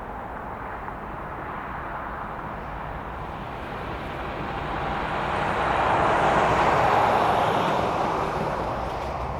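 A vehicle passing by: a rushing noise that swells to its loudest about six to seven seconds in, then fades.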